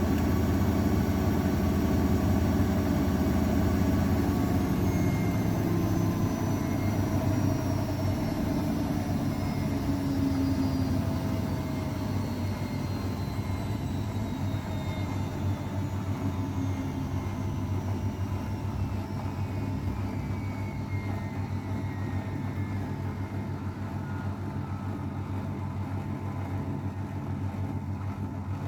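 Old AEG Öko_Lavamat 693 washing machine slowing down at the end of a spin: a steady mechanical hum and whine whose tones slowly fall in pitch as the machine gets gradually quieter.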